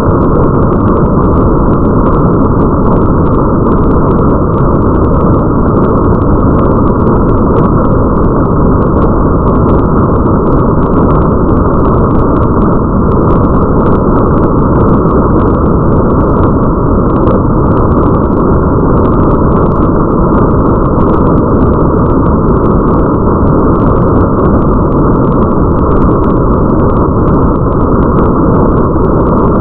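Steady, muffled rain ambience: a dense, dull, deep wash of rain noise with the high end cut away, flecked with faint ticks of patter.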